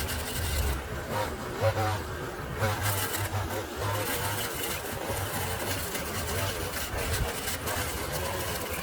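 A motor running steadily with a constant low hum and hiss, with faint voices in the first few seconds.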